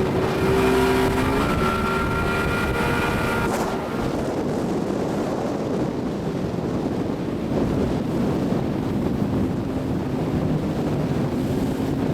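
Watercraft engine running at speed with a steady tone for the first three and a half seconds or so, then giving way to a loud, even rush of wind and water noise.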